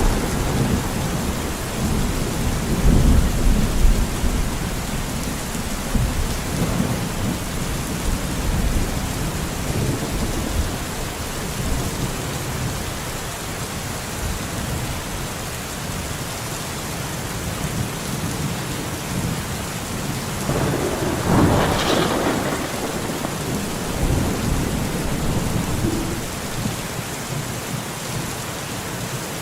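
Steady heavy rain falling on a forest, with low rumbles of thunder dying away over the first few seconds and a sharper burst about 21 seconds in.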